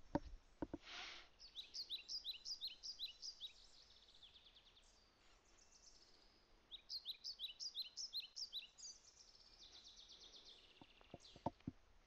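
A songbird singing faintly in the background: two runs of quick, falling chirps, each about two seconds long and a few seconds apart. A few faint clicks near the end.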